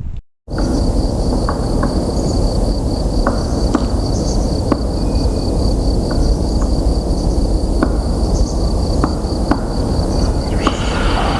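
Loud, steady low rumble of a passing train, with scattered sharp clicks and a steady high pulsing whine over it. It grows brighter near the end.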